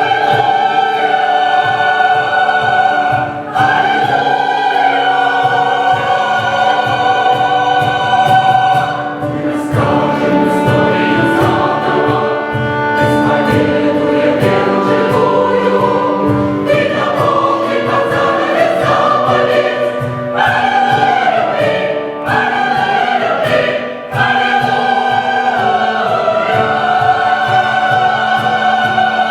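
Large combined choir singing held chords, with a run of sharp rhythmic taps beneath the voices through the middle and sung lines sliding downward near the end.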